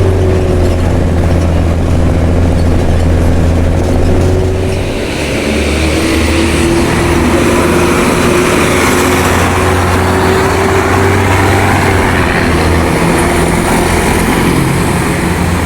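Mercedes-Benz OM366LA inline-six turbo-diesel of a city bus with an open, straight-through exhaust, running steadily. About five seconds in the engine note dips briefly, then it carries on with more hiss and a steady whine alongside.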